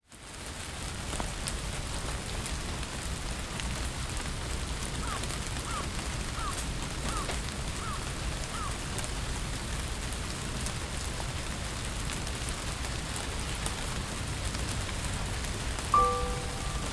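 Steady rain falling, fading in at the start. Around the middle come six short falling chirps, evenly spaced, and near the end a single bell-like chime note sounds.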